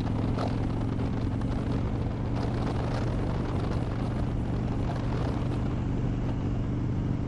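Harley-Davidson Dyna Wide Glide's Twin Cam 103 V-twin running steadily at cruising speed through Vance & Hines slip-on exhausts with the baffles removed.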